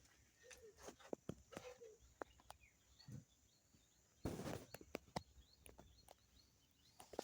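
Faint outdoor ambience with scattered light clicks and short, faint bird chirps, and a brief rustle a little over four seconds in.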